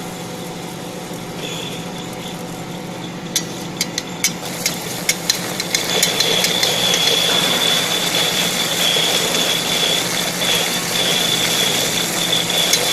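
GG50 peanut butter grinder running with a steady machine hum. A series of sharp clicks comes a few seconds in. From about six seconds it gets louder, with a steady high whine over the noise.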